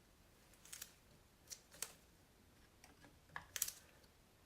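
Circlip pliers working the gudgeon-pin circlip out of a BMW R80 piston: a scattering of faint, light metallic clicks, with a quick cluster about three and a half seconds in.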